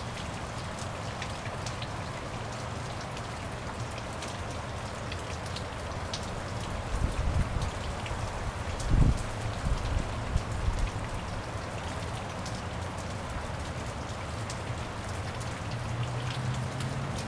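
Steady rain falling onto puddles and wet grass, with individual drops ticking close by. A few low rumbles come in around the middle.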